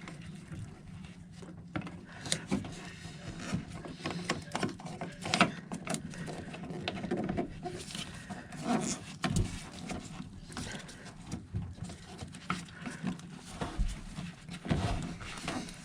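Irregular plastic clicks and knocks as the parts of a Jabsco manual marine toilet, with its new joker valve fitted, are handled and fitted back together, over a low steady hum.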